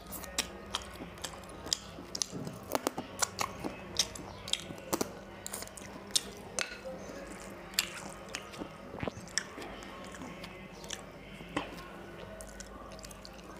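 Close-miked chewing and wet mouth sounds of a man eating chicken curry and rice by hand: quick smacks and clicks several times a second, thinning out after about ten seconds.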